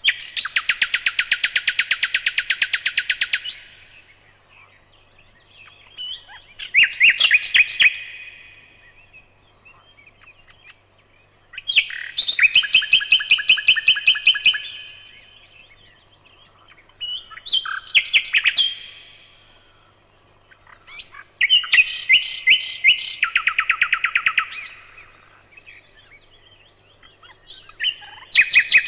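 A nightingale singing loud phrases of rapid repeated notes, fast rattles and trills. Each phrase lasts two to three seconds and is followed by a short pause, about six phrases in all.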